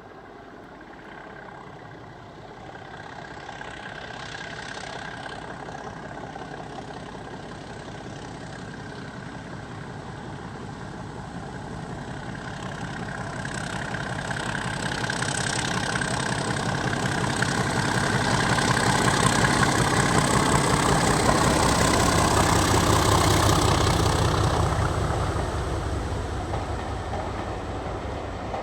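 Diesel locomotive engine running as the train approaches, growing steadily louder. It is loudest about twenty seconds in, then begins to fade as it passes.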